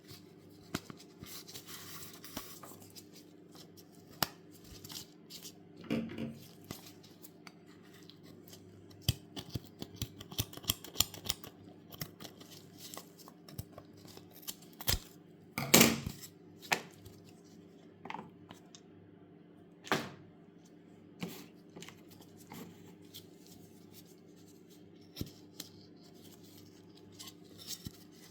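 Hands taking apart a lacing craft toy: scattered small clicks, scrapes and rustles of lace being pulled loose, with a sharper clack a little past halfway, over a faint steady hum.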